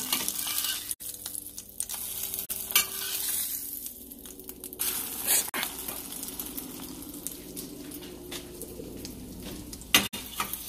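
Egg-dipped bread sizzling steadily as it fries in a pan, with a few sharp knocks of a utensil against the pan.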